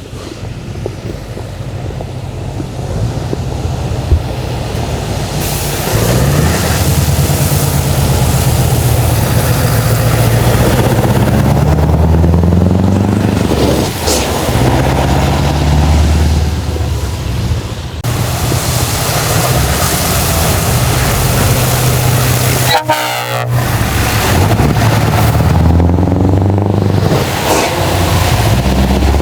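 Heavy truck diesel engines pulling away and accelerating, their pitch climbing and dropping repeatedly as they rev through the gears. The sound breaks off for a moment about two-thirds of the way through, then trucks are heard again.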